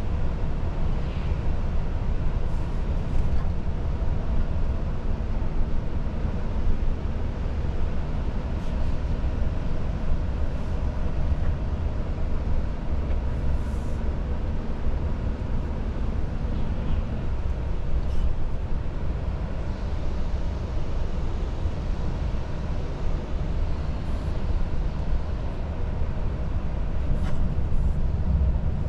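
Volvo FH truck on the move: its inline-six diesel and the tyres on the road make a steady low rumble heard from inside the cab, with faint ticks now and then.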